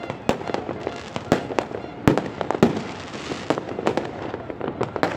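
Fireworks going off in quick, irregular succession, a rapid string of sharp bangs and pops over a steady crackling haze, with the biggest bangs about two seconds in.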